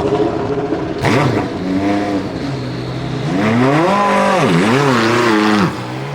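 Ferrari 488 GTE race car's twin-turbocharged V8 accelerating hard, its pitch climbing through the gears. There is a sharp crack about a second in, and the pitch dips and rises again as it shifts. The throttle lifts suddenly near the end.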